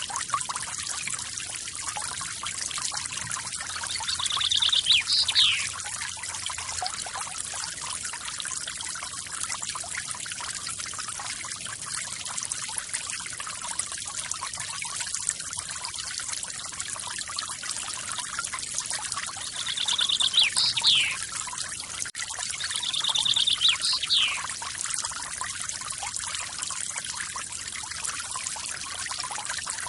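Water from a small forest waterfall splashing and trickling steadily. A bird calls three times, about five seconds in and twice near two-thirds of the way through, each call a short trill ending in a quick falling note.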